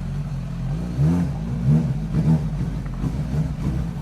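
Suzuki GSX-S1000 motorcycle's inline-four engine running, revved in three or four short blips, each rising and falling in pitch, between about one and two and a half seconds in, over a steady low engine note.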